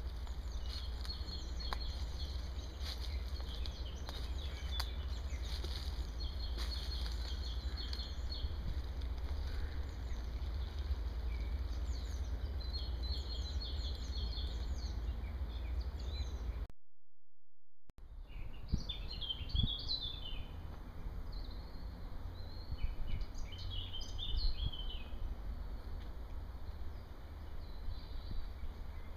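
Songbirds chirping and singing in woodland over a steady low rumble. The sound cuts out briefly a little past halfway, and the birdsong is livelier after the gap.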